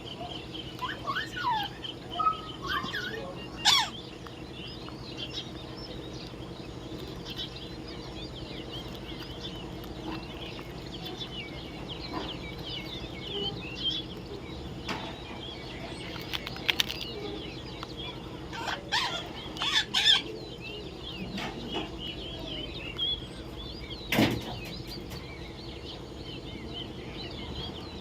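Parrots chirping and squawking in short, scattered calls over a steady low hum, with a few louder sharp calls, one about four seconds in and several in the second half.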